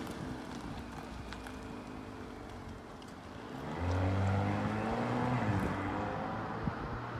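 Grey Audi SUV's engine running as it drives past, then accelerating about four seconds in, growing louder and rising in pitch before easing off as it moves away.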